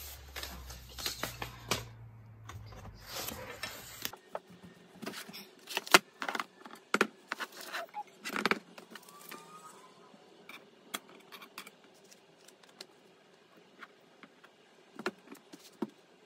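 Metal parts of an aluminium-alloy laptop stand being handled and lifted out of their cardboard box and foam packing: a string of sharp metallic clinks and knocks with some rustling. The loudest knock comes about six seconds in.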